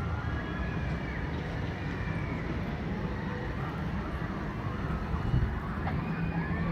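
Wind buffeting the microphone: a steady low rumble, with faint high gliding sounds in the background.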